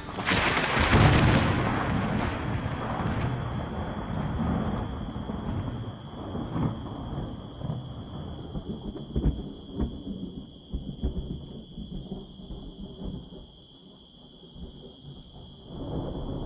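Thunder cracks loudly at the start and rumbles away over several seconds, with fainter rolls and thumps later on and another swell near the end. A steady shrill chorus of desert insects, crickets, chirps throughout.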